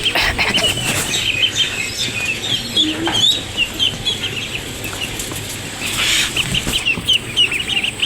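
A flock of pet birds feeding on scattered grain, with many short high calls and chirps running on, and a few bursts of wing flapping.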